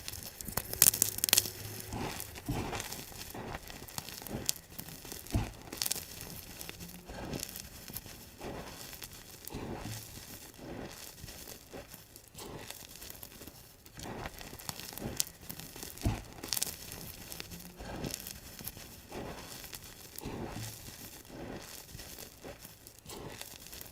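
Blocks of gym chalk being crushed, played sped up: a steady run of crunches about one a second, with a few louder, sharper cracks in the first second and a half.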